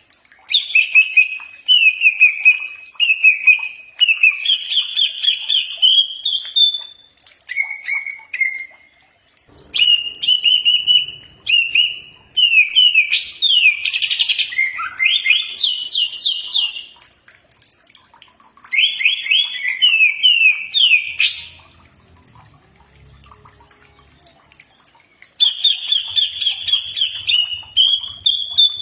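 Cucak ijo (green leafbird) singing: five phrases of rapid, high trills and up-sweeping whistled notes, separated by short pauses.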